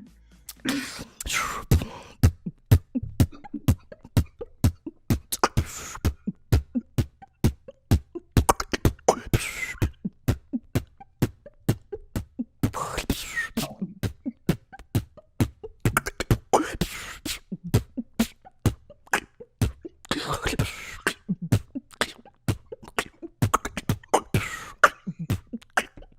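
Human beatboxing: a fast, unbroken run of mouth-made kick, snare and hi-hat hits, with pitched, bending vocal sounds woven in every few seconds, performed until the beatboxer runs out of breath.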